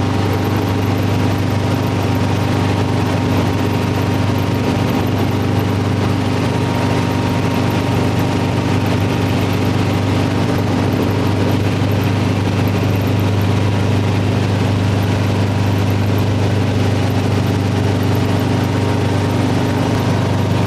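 Helicopter in flight: the steady drone of engine and rotor, a strong low hum with a thin, steady whine above it and no change in level.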